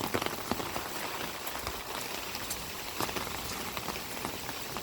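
Heavy hurricane rain falling steadily, with many separate drops ticking sharply on a close surface.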